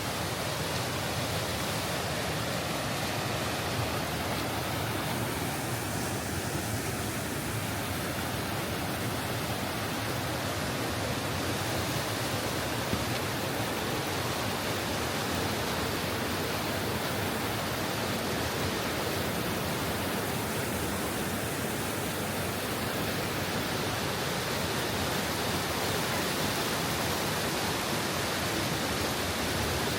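The River Tees rushing over rocks and falls: a steady, unbroken rush of water.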